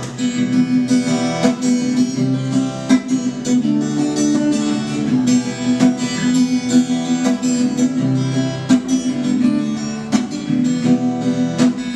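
Background music: an acoustic guitar strumming chords in an even rhythm.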